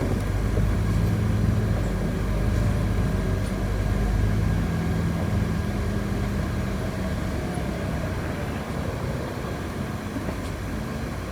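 City bus running, heard from inside the cabin: a low engine drone with road noise that eases off about halfway through.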